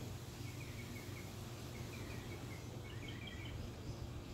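Faint bird chirps, a run of short high notes, over a steady low background hum.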